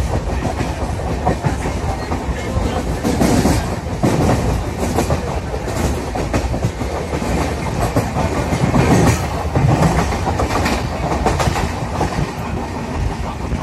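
A moving passenger train heard from inside the coach: a steady rumble with the wheels clattering over rail joints.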